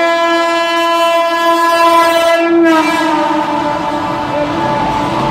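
Train horn sounding one long, steady, loud blast. About two and a half seconds in, its pitch drops slightly and it fades under the rumbling noise of the moving train.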